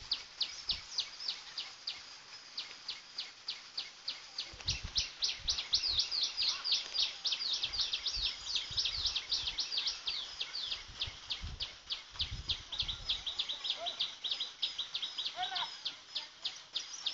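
A small bird calling in a rapid, very regular series of short high chirps, about four or five a second, without a break. A few low thumps come in the middle.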